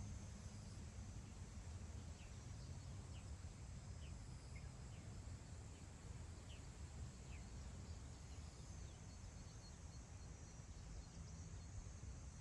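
Faint, steady low wind rumble across grassland, with a string of soft, short high bird chirps a couple of seconds in.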